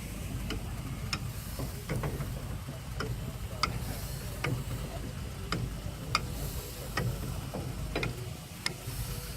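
Running machinery ticking: sharp metallic ticks, a bit more than one a second, over a steady low rumble.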